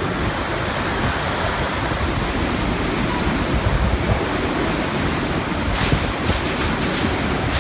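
Typhoon wind gusting hard and buffeting the microphone: a dense, heavy rush of noise that swells and eases with the gusts.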